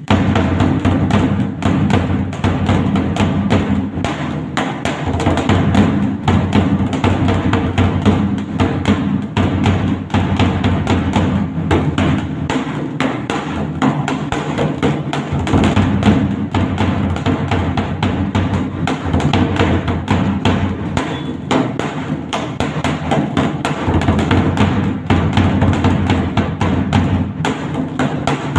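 Dhak, a large two-headed barrel drum, beaten with sticks in a fast, dense, unbroken rhythm that starts suddenly.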